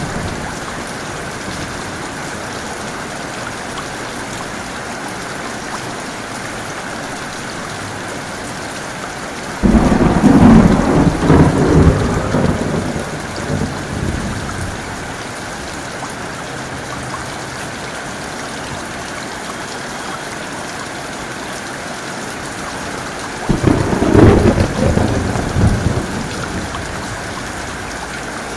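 Steady heavy rain in a thunderstorm, with two loud claps of thunder, one about ten seconds in and another about five seconds before the end, each starting suddenly, rumbling for a few seconds and fading back into the rain.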